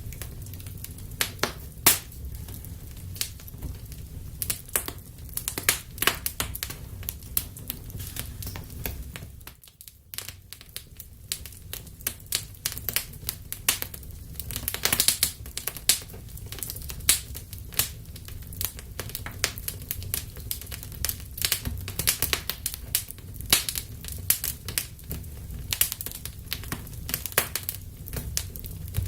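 Wood fire burning in a fireplace, crackling and popping irregularly over a steady low rumble of flames, with a brief lull about ten seconds in.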